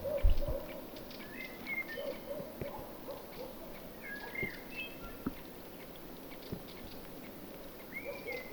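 Birds calling outdoors: repeated lower wavering calls and higher curved chirps, with scattered small clicks. A short low thump comes just after the start.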